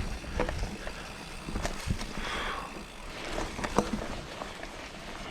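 Mountain bike ridden over a rocky, rooty dirt trail: tyre noise on the ground with scattered short clicks and knocks from the bike rattling over rocks and roots.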